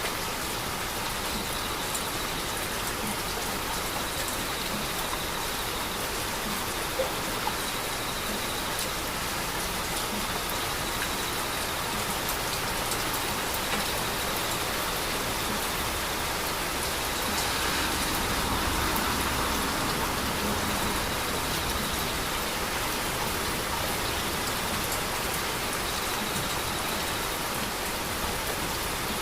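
Heavy rain falling steadily, with scattered sharp drop ticks. It swells a little louder for a few seconds about two-thirds of the way through.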